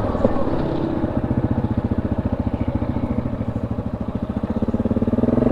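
ATV engine running at low speed with an even, pulsing throb that picks up a little near the end.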